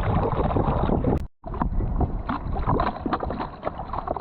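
Wind rumbling on the microphone and water splashing out on a jet ski, broken by a sudden gap about a second in, after which the splashing comes back choppier.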